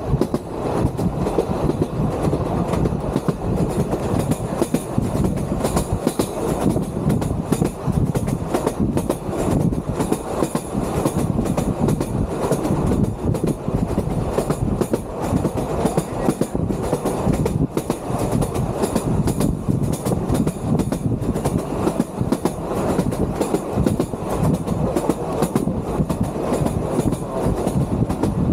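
Vintage electric train of the Sóller railway running along the track: a steady rumble with continuous rattling and clatter from the wheels and carriage.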